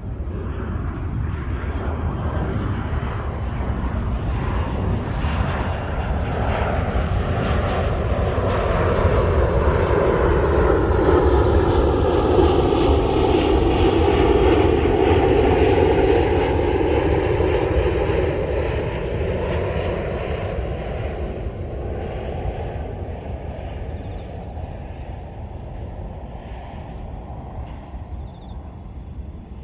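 An aircraft passing overhead, its engine noise swelling to a peak about halfway through and then slowly fading away, over steady chirping of crickets.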